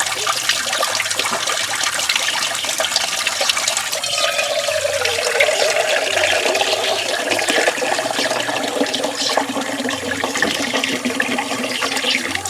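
Tap water running steadily and splashing into an outdoor sink basin, with a faint tone that slowly drops in pitch from about four seconds in.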